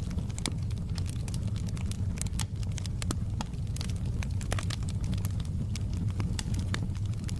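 Wood fire burning in a fireplace: frequent irregular crackles and pops of burning wood over a steady low rumble.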